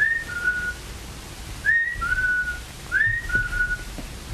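Someone whistles a two-note call three times, about a second and a half apart. Each call is a short rising note followed by a lower held note.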